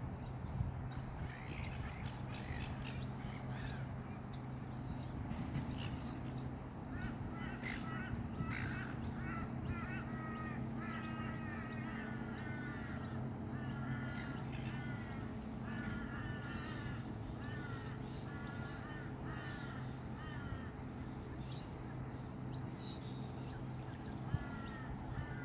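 A flock of gulls calling, many short harsh calls overlapping, growing thicker and busier several seconds in. A steady low hum runs beneath.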